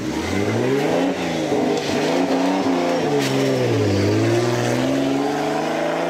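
A drift car's engine revving hard, its pitch climbing and falling again several times as the throttle is worked on and off.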